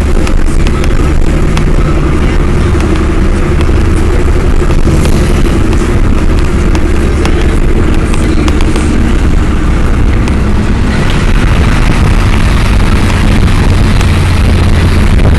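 2005 Mercedes-Benz C55 AMG's 5.4-litre V8 engine and exhaust running loud and steady under way.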